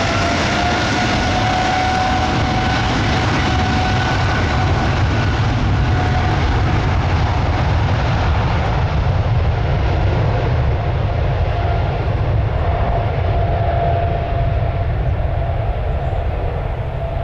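Boeing 777F's GE90 turbofans at takeoff thrust: a loud, steady jet roar over a deep rumble, with an engine whine that rises slightly at the start and then holds steady. The hiss thins out in the second half as the aircraft moves away.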